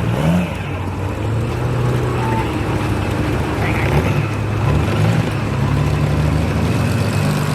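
Classic supercar engine running at low revs: a steady low drone with small rises and falls in pitch.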